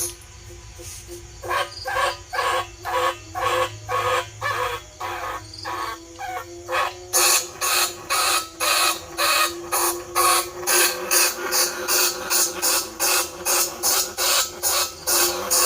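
Bandicoot rats squeaking, a rat-calling lure sound: short, sharp squeaks repeated about two a second, turning louder and quicker about seven seconds in, over a faint steady tone.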